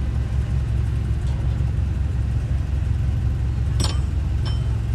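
Heavy diesel engine of earthmoving machinery, a bulldozer or dump truck, running steadily with a low drone. A short sharp knock sounds about four seconds in.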